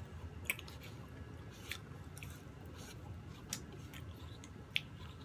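Two people chewing soft chiffon cake with cream, with quiet mouth sounds and a handful of short sharp clicks scattered through.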